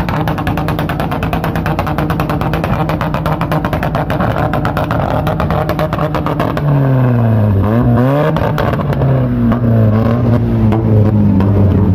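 Car engine running loudly with a fast, even pulsing note. About seven seconds in, its pitch drops and climbs back up as the throttle is worked, then it settles to a steady lower note.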